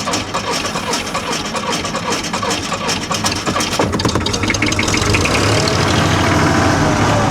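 Three-cylinder Perkins diesel of a 1959–60 Bolinder-Munktell BM 320 tractor just after a cold start, running roughly with irregular clattering knocks. About four to five seconds in it settles into a steadier, louder idle. These Perkins triples don't run cleanly on all cylinders until they warm up.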